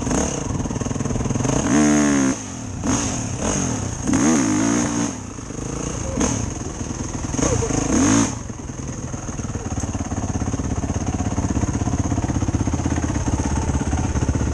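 Enduro motorcycle engine revved in three short blips, its pitch rising and falling each time, then settling into a steady idle for the second half.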